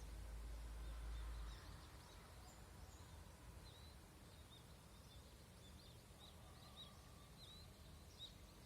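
Faint birds chirping, short high calls repeated many times over a quiet outdoor background, with a low rumble in the first second or so.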